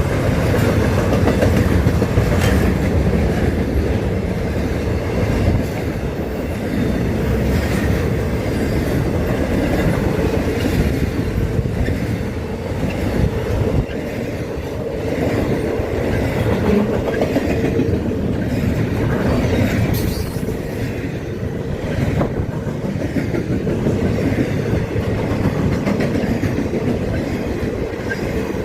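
CSX freight train rolling steadily past, its cars rumbling with the clickety-clack of wheels over rail joints and scattered sharper clicks every few seconds.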